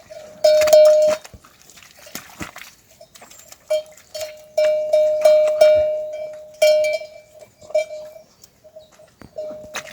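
A metal livestock bell clanking irregularly on one steady note, about a dozen uneven strikes that each ring and fade, as a herd animal moves.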